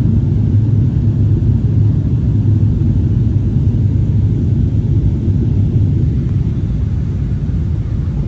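Steady low rumble of an airliner heard from inside the passenger cabin: engine and airflow noise during the flight.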